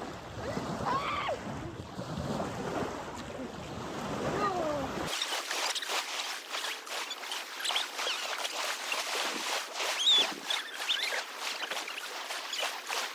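Water splashing and sloshing around an inflatable kayak being paddled, with wind on the microphone and faint voices at first. About five seconds in the sound changes abruptly to a thinner stretch of small splashes and clicks.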